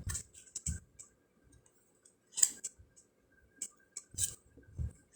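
A deck of round cardstock fortune cards being flipped through by hand. Scattered clicks and swishes come as cards slide over one another, with a few muffled knocks, and short quiet gaps fall between them.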